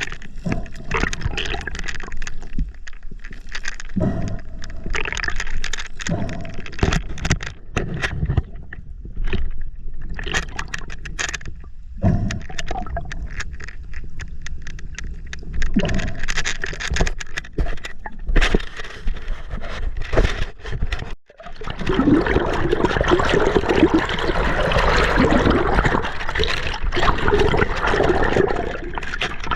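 River water splashing and gurgling close to a GoPro camera, with many irregular knocks and scrapes for about the first twenty seconds. Then comes a sudden short drop, and after it a steady rush of water.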